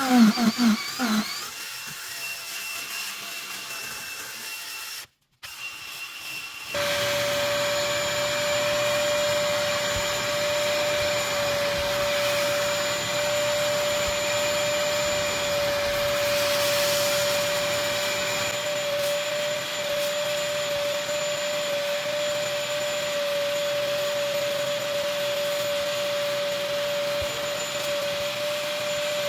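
Vacuum running steadily with a constant whine. It starts a few seconds in, right after a brief silent gap; the opening seconds are quieter.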